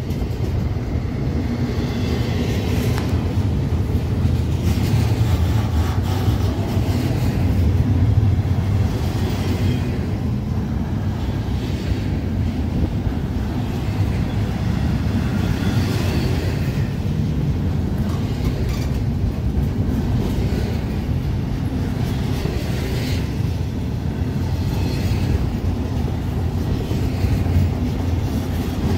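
Union Pacific freight train rolling past downgrade: a steady low rumble of cars and wheels, with clatter from the wheels coming and going every few seconds.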